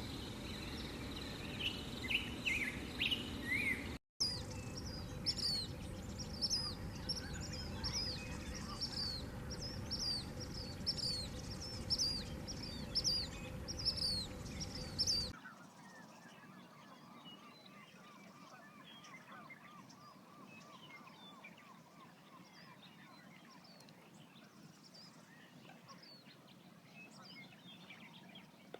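Wetland birds calling: a long run of short, repeated high calls over a steady background. About halfway through the sound drops abruptly to fainter, repeated lower calls.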